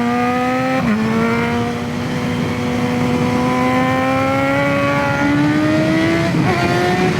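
BMW S1000RR inline-four sportbike engine pulling hard under steady throttle, its pitch climbing slowly as the bike gathers speed. The note dips briefly twice, about a second in and again near the end.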